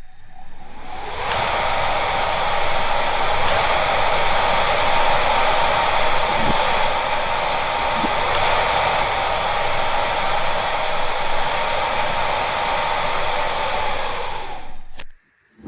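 A small electric motor blowing air runs steadily with a constant whine, in the manner of a hair dryer. It is switched on, settles within about a second, runs for about fifteen seconds and then cuts off.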